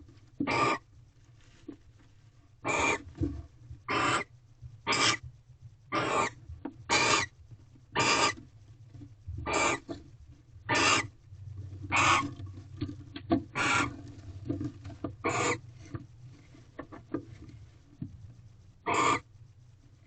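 Barn owls in a nest box giving short, harsh hissing calls over and over, about one a second, with a pause of a few seconds near the end. A steady low electrical hum runs underneath.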